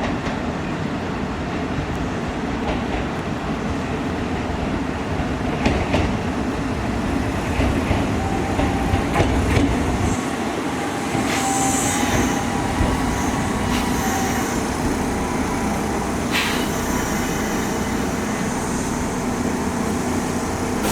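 Kintetsu Minami-Osaka Line electric train running at the station, a steady rumble with knocks of the wheels over rail joints and a brief high wheel squeal about eleven seconds in.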